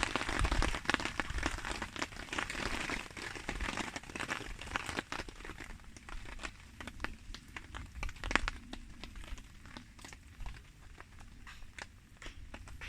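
Campfire crackling: a dense hiss of small snaps for the first few seconds, then sparser scattered pops, with one louder pop about eight seconds in.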